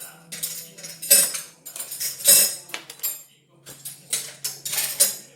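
Short bursts of clinking and clattering of small hard objects, several in a row at irregular intervals, over a faint low steady hum.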